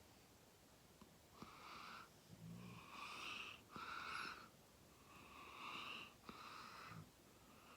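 Faint, breathy breathing: about five wheezy breaths in a row, in and out, with a few soft ticks between them.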